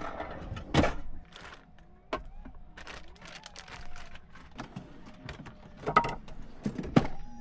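Scattered clicks and knocks of containers and packaging being handled while food is prepared, with louder knocks about a second in and twice near the end.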